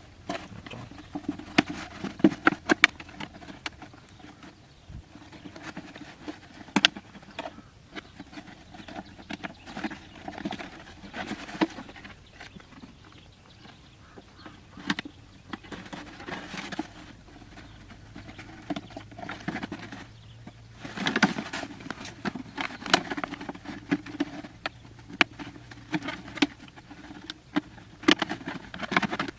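Irregular clicks, taps and rustling, coming in uneven clusters.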